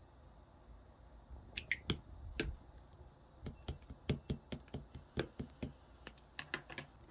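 Clear slime being pressed and stretched by hand, giving a series of sharp, irregular clicks and pops that come thick and fast in the second half.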